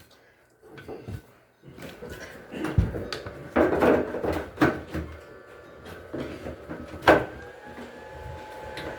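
Knocks and clatter of parts and panels being handled on a washing machine under repair, the loudest a sharp knock about seven seconds in. Right after it a steady machine hum with a thin whine starts.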